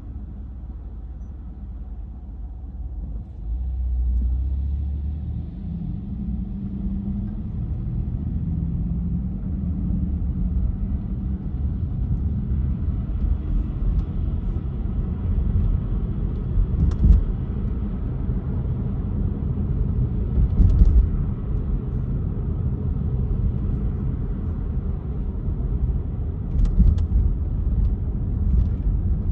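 A car driving: a steady low engine and road rumble that grows louder about four seconds in, with a few brief clicks or knocks later on.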